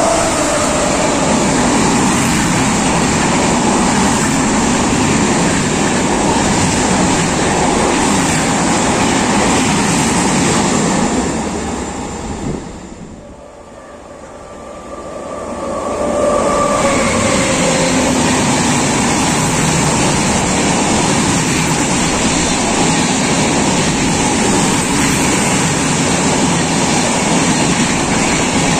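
Express trains passing a station platform at speed: a loud, steady rush and rattle of coach wheels on the rails. About 13 seconds in the sound falls away briefly, then a second electric-locomotive-hauled express comes up and its coaches pass with the same steady rush.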